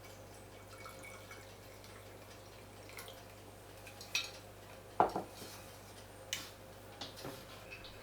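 A few scattered light clicks and knocks, the loudest about five seconds in, over a steady low hum.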